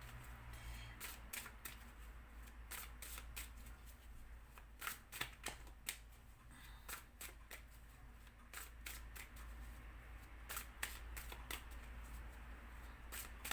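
A deck of Lenormand oracle cards shuffled by hand: a soft, irregular run of card clicks and riffles.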